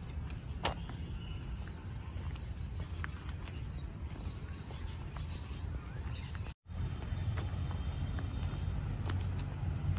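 Rural outdoor ambience with a steady low rumble; after a brief dropout about two-thirds of the way in, a continuous high-pitched insect buzz sets in.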